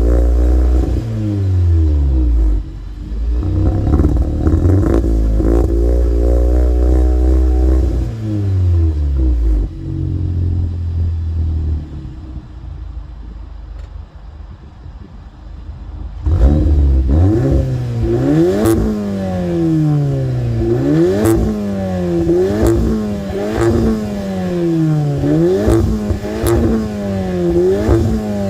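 Seat Leon Cupra 280's turbocharged four-cylinder, heard through a Cobra Sport non-resonated exhaust, revving again and again so the engine note climbs and falls. It drops to a quieter lull about halfway through. Then it comes back in quicker, regular rise-and-fall cycles with sharp cracks near their peaks.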